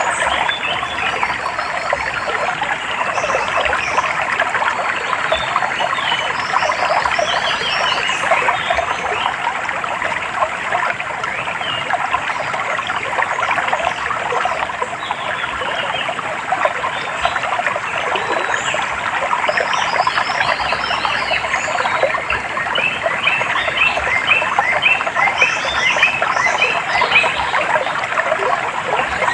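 Water trickling under a dense, continuous chorus of animal calls, with runs of quick repeated bird chirps that grow busier near the end.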